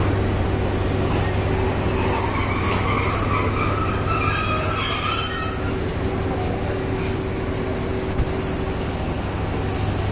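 Passenger train rolling slowly along the platform over a steady low diesel rumble. Its brakes or wheels squeal in several high pitches from about two to six seconds in as it slows, and there is a single click near the end.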